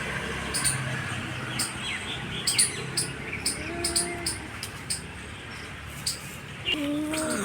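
Small birds chirping repeatedly, with short high chirps all through. A brief pitched tone sounds about halfway, and another held tone starts near the end.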